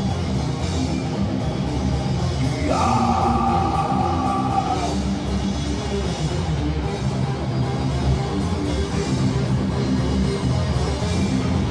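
Live heavy metal band playing an instrumental passage: distorted guitars, bass and a drum kit with steady cymbal hits. About three seconds in a high note slides up and is held for about two seconds.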